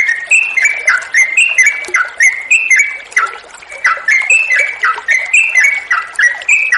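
Sooty-headed bulbul (trucuk) singing a long, unbroken run of short whistled phrases, several notes a second, stepping up and down in pitch, with a brief lull about three and a half seconds in.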